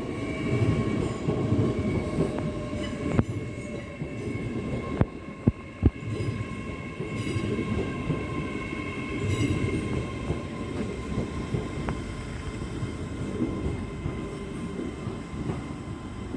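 LNER Class 800 Azuma train arriving at the platform: a continuous rumble of the train rolling in, with steady high whines over it. Three sharp clicks come about five to six seconds in.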